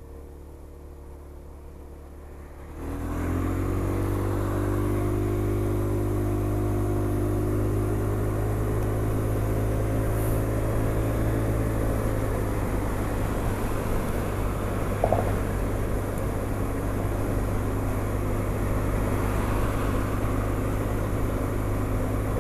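Honda SH 300i scooter's single-cylinder engine ticking over quietly, then about three seconds in it pulls away and accelerates, its note rising slowly for several seconds. After that it settles into steady cruising under loud wind and road rush.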